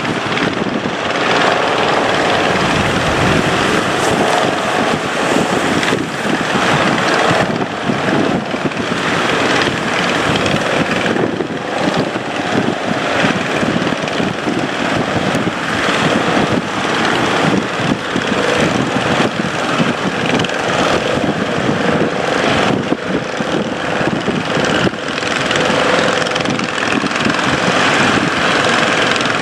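Boat engine running steadily under heavy wind noise on the microphone, with a faint steady drone through it.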